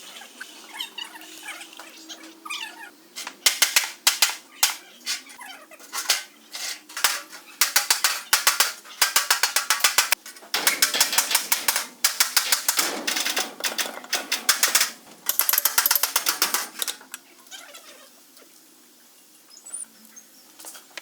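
Hand-tool work on metal axle parts: repeated bursts of rapid clicking and rattling with scattered sharp knocks, quieter near the end.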